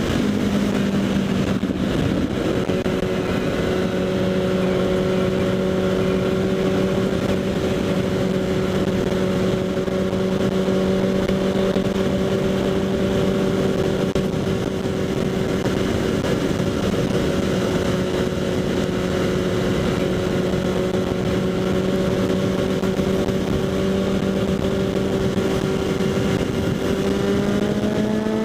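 Kawasaki Z800's inline-four engine through a LeoVince SBK aftermarket exhaust, running at steady revs on the move. Near the end the pitch rises as the bike accelerates.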